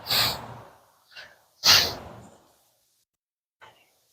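A person breathing out hard twice, about a second and a half apart, short puffs of effort while lifting a heavy car hood.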